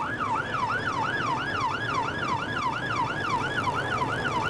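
Police patrol car siren in fast yelp, sweeping up and down about three times a second, over engine and road noise during a high-speed pursuit.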